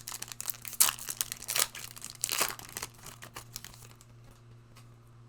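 Plastic-foil trading-card pack wrapper crinkling and tearing as a Monopoly Prizm booster pack is opened. A quick run of sharp crackles dies down about four seconds in.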